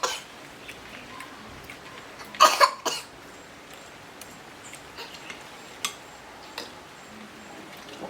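A person coughing: one cough just at the start and a double cough about two and a half seconds in, followed by a few faint clicks.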